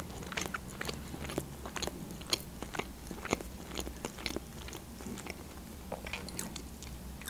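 Close-miked chewing: a person's mouth eating, with many small irregular clicks and smacks.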